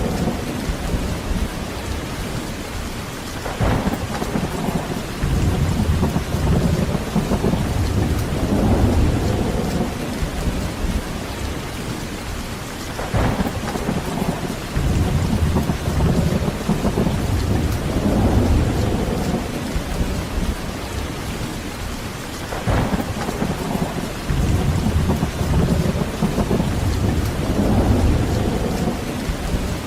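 Heavy rain falling steadily with rolling thunder, the low rumbles swelling and fading again every few seconds. Three sharper thunder cracks come about nine or ten seconds apart.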